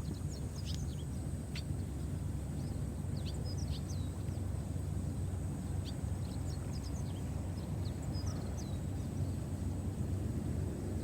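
Small birds chirping in short, quick calls, scattered throughout, over a steady low rumble of outdoor background noise.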